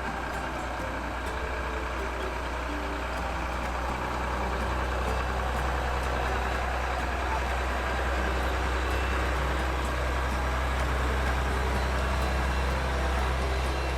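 Heavy truck engine running steadily, gradually growing louder.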